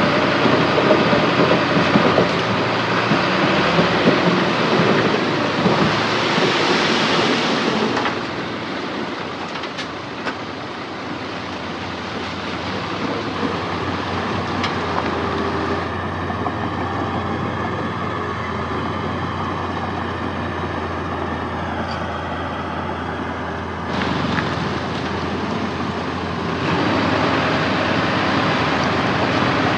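Heavy earthmoving machinery running, a dense mechanical noise whose level and character change abruptly about 8, 16, 24 and 27 seconds in, quieter in the middle stretch and louder again near the end.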